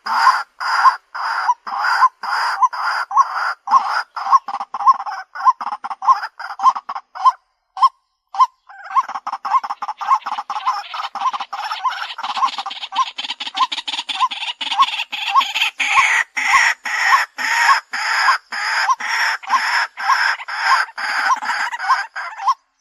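White-breasted waterhen calling: a long run of short, repeated 'kwak' notes at about two to three a second, with a brief pause about eight seconds in. It is a bird-lure call recording, used to draw waterhens in.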